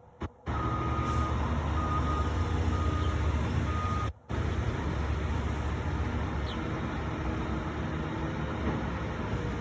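A truck's reversing alarm beeping four times, evenly spaced, over the steady low rumble of its engine. The rumble carries on after the beeps stop, with a brief dropout about four seconds in.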